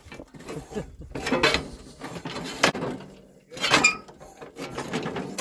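Several short knocks and clatters of objects being handled, spread irregularly through the few seconds.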